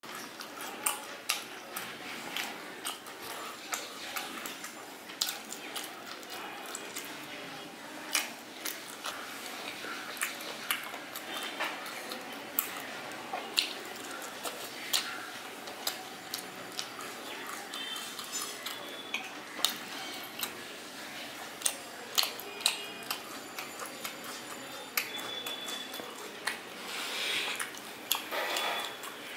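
Close-up eating sounds of a person chewing steamed chicken momos: soft, wet chewing with frequent, irregular sharp mouth clicks and smacks.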